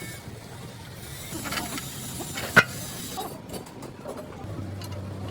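Mechanical work noise: a steady low hum with one sharp knock about two and a half seconds in.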